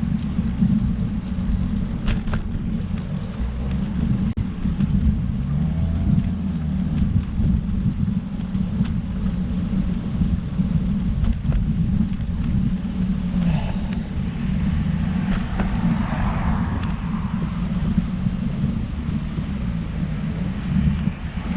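Wind rumbling steadily on the microphone of a road bike rider's camera while riding, with a faint rise of road or tyre noise about two-thirds of the way through.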